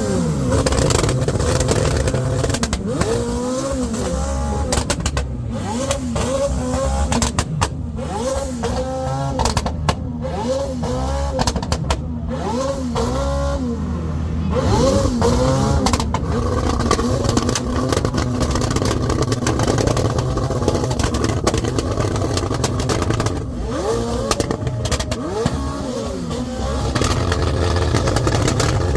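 Car engines revving again and again, the pitch climbing and falling in quick arcs, over a steady low rumble.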